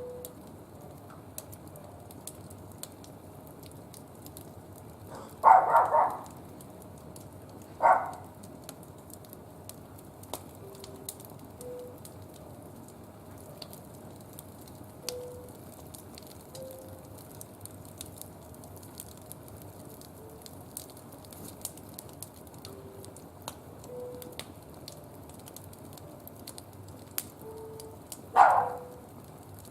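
Wood fire burning in a barbecue grill, crackling with frequent small sharp pops. A few louder brief sounds stand out: about six seconds in, again about two seconds later, and near the end.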